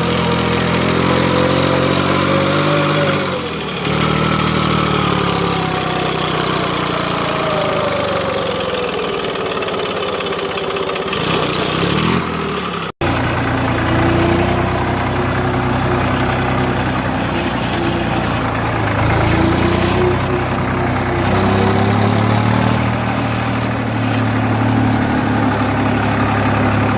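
Tractor engine running, its pitch slowly rising and falling with the throttle, the recording sped up to 1.5 times. The sound breaks off for an instant about halfway through and resumes.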